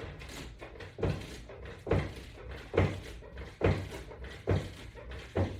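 Repeated dull thuds, about one every second, from resistance-band exercise repetitions: the band hardware or the body knocking at each rep.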